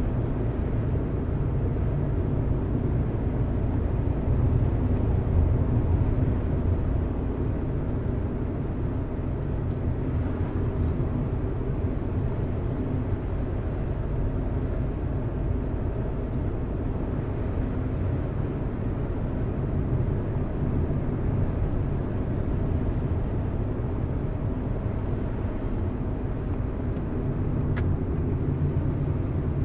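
A car driving along a road, its engine and tyres making a steady low rumble, with a few faint ticks near the end.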